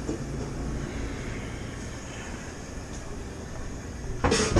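Steady low hum of a sandwich cooler's refrigeration unit and fans running. Near the end a brief loud high squeal cuts in.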